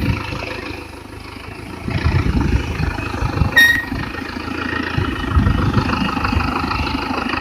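Engine of a motor vehicle running with an uneven low rumble, with a short high beep about three and a half seconds in.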